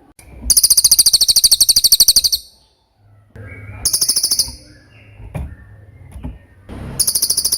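Cililin songbird singing very high, fast trills: a long one of about two seconds near the start, a short one around four seconds in, and another near the end, with fainter calls in between.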